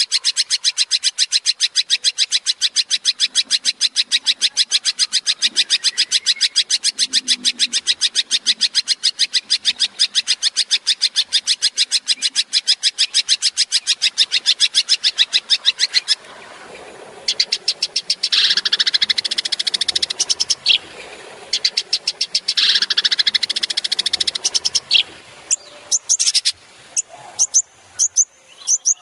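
Long-tailed shrike (cendet) singing a 'tembakan': a fast, even rattle of sharp high notes, about six a second, for about sixteen seconds. After a brief break it switches to two bursts of varied, chattering song, then a few spaced sharp notes near the end.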